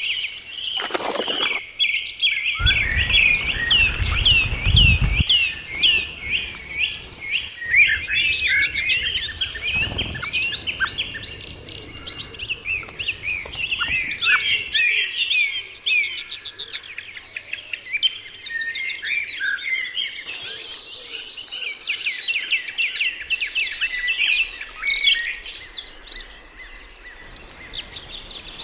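Several small birds chirping and calling at once, a dense run of quick, high chirps and short calls. A brief low rumble comes a few seconds in.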